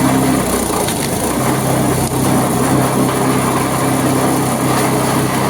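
Petrol-engined branch chipper running while it shreds wood, the crunching and splintering of branches being chipped over a steady engine note. The engine note wavers briefly about half a second in, then steadies.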